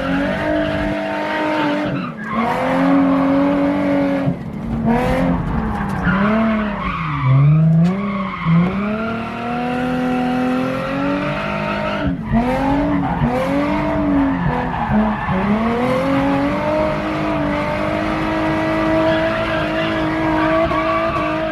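Drift car's engine revving up and down hard through a drift lap, its pitch swinging constantly and dropping sharply a few times, with tyres skidding and squealing.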